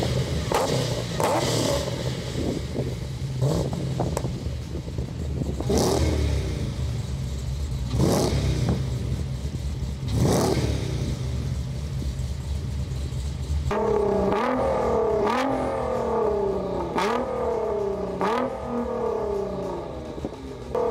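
Rev-off between a Holden HSV GTS, a 1000-horsepower Jeep Grand Cherokee Trackhawk and a Nissan GT-R, the engines revved hard in turn from a standstill: short sharp blips over a steady idle rumble, then from about 14 seconds in a run of about five quick revs, each rising and falling back.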